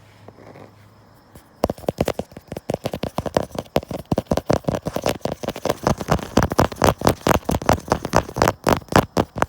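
Fingertips tapping rapidly on the phone camera that is recording, picked up directly by its mic: quick, sharp taps, several a second, starting about a second and a half in.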